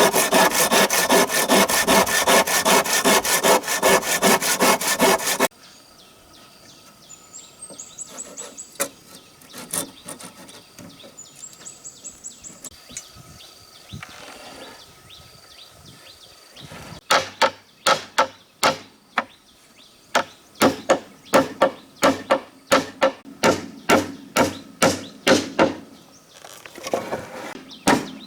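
Wood being sawn by hand: a fast, even run of strokes that stops after about five seconds. After a quieter stretch of scattered light knocks, a slower steady sawing rhythm of about two strokes a second starts at about seventeen seconds.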